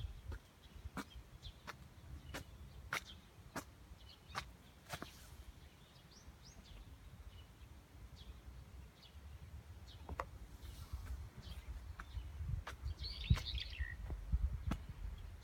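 Garden birds chirping: scattered sharp ticks and short high chirps, with a busier flurry of calls about thirteen seconds in, over a low steady rumble.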